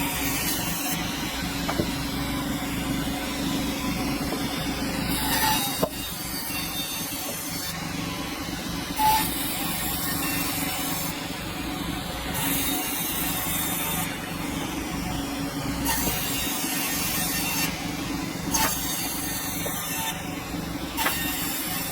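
Sawmill machinery running with a steady hum and low rumble, with stretches of higher hissing every few seconds and a couple of sharp knocks, around 6 and 9 seconds in.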